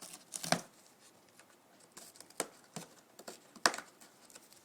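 Umbrella cockatoo biting and tearing at a cardboard box: scattered sharp crunches and snaps at irregular intervals, the loudest about half a second in.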